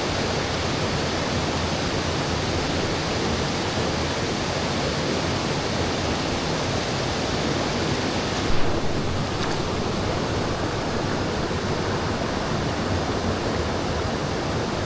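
Steady rush of flowing stream water, with a brief thump about eight and a half seconds in.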